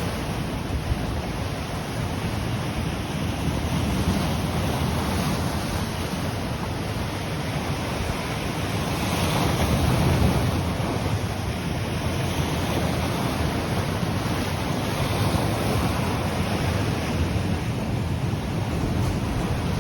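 Ocean waves breaking and washing on the shore as a steady surf roar, swelling slightly about halfway through, with wind buffeting the microphone.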